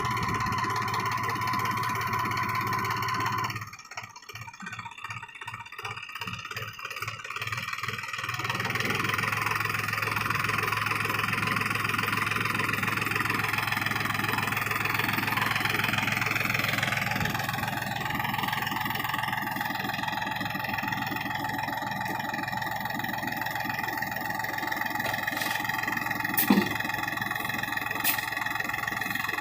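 New Holland 4710 tractor's diesel engine running steadily. About four seconds in it drops quieter with a pulsing beat for a few seconds, then runs steady again. A few sharp clicks come near the end.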